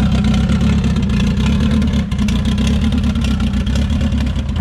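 Turbocharged Honda engine swapped into a Subaru Impreza running steadily, with a loud, rough exhaust note from an open pipe straight off the turbo.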